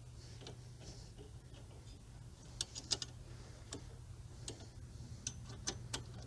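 Scattered sharp metallic clicks of hand tools during brake reassembly, several in quick succession about two and a half seconds in, then single clicks every second or so.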